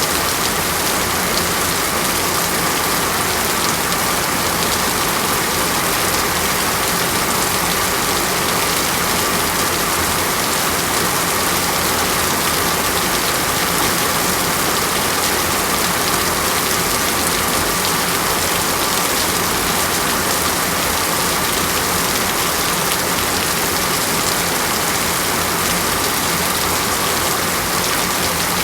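Steady rain falling on a surface, an even, unchanging hiss with no thunder or other events.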